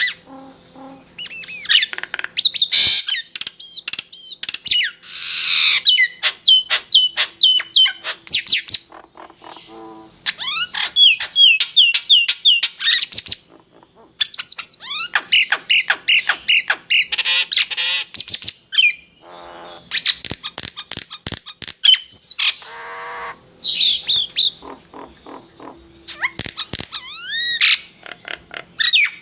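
Caged songbird singing a fast, varied song used as 'masteran' tutor song: rapid runs of repeated sharp notes, rising whistles and trills, broken by a few short pauses.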